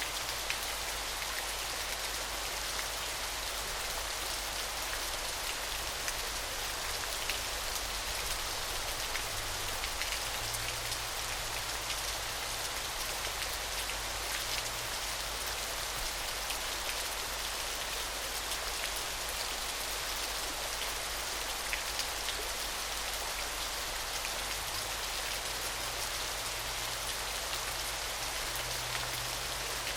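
Small waterfall: water falling and splashing steadily, a continuous hiss with a fine patter of droplets.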